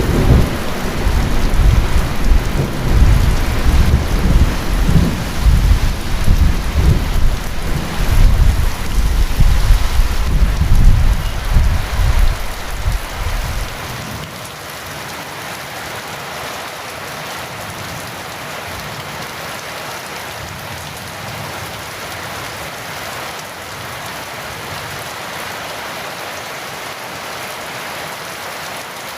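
Heavy rain with a long, loud rumble of rolling thunder that dies away about halfway through, leaving the steady hiss of rain.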